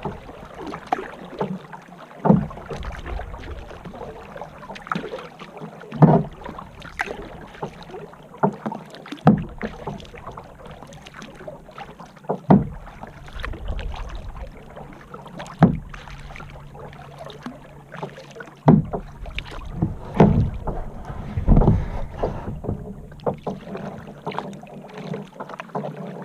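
Kayak paddle strokes: a sharp splash or knock roughly every three seconds as the paddle dips, over a steady wash of water, with wind buffeting the microphone between strokes.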